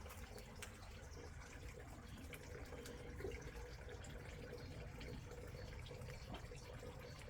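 Faint, steady sound of running water, with scattered small clicks and drips.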